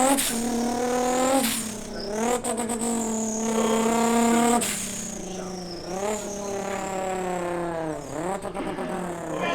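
A car engine revved hard and held high, dropping and climbing back up about four times.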